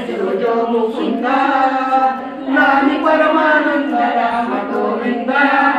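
Women singing a Telugu cradle song (uyyala paata) unaccompanied, in slow phrases with long held notes.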